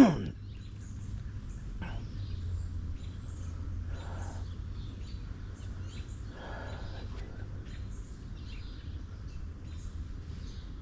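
Faint bird chirps scattered over a steady low hum of background noise.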